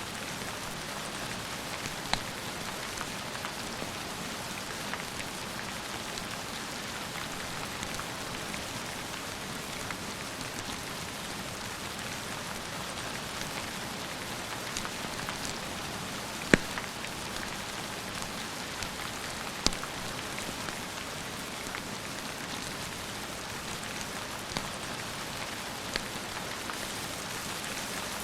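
Steady rain with a few sharp crackles and pops from a wood fire in a fireplace, the loudest a little past the middle. No thunder.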